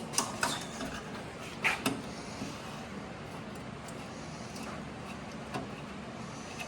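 A few light clicks and knocks in the first two seconds, from the headlight assembly being worked loose by hand, then a steady low hiss of background noise with one more faint click.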